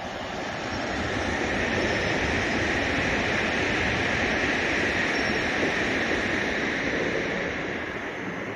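Meitetsu electric train rolling along the platform, a steady rush of wheels on rails that builds over the first couple of seconds and eases slightly near the end.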